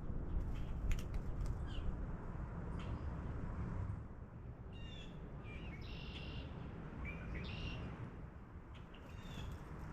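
Wild birds chirping: a cluster of short high calls about five to eight seconds in and a couple more near the end, over a steady low rumble of background noise. A few sharp clicks sound in the first two seconds.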